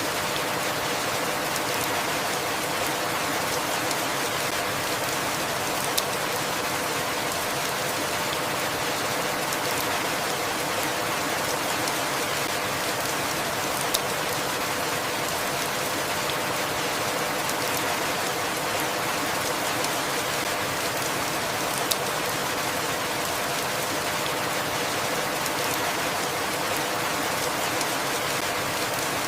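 Steady rainfall, an even hiss of drops, with a single sharp drop tick standing out about every eight seconds.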